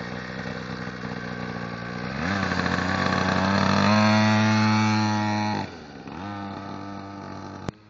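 Pocket bike's small engine running at idle, then revving up about two seconds in and held at high revs for about three seconds before dropping back to idle. A sharp click comes near the end, and the engine sound falls away after it.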